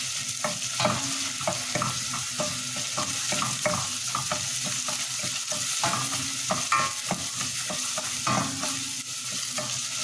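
Food sizzling in a hot pan while being stirred, with frequent short scrapes and clicks of the utensil against the pan over a steady frying hiss.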